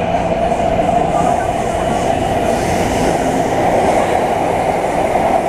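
Train running with a steady rumble.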